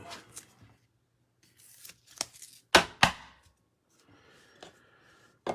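Trading cards and plastic card holders handled on a table: a few light clicks and rustles, then two sharp knocks about a quarter second apart near the middle, and faint scraping toward the end.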